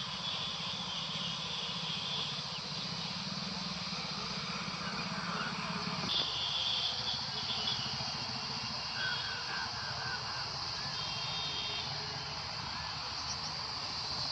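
The single-cylinder 418 cc diesel engine of a power tiller running steadily, its low note shifting about six seconds in.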